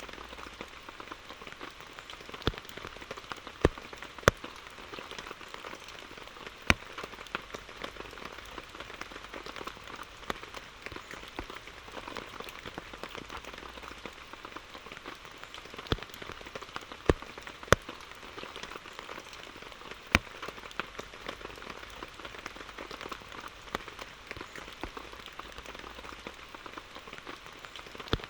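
Steady rain falling, with scattered sharp, louder drop impacts every second or few seconds over the even patter.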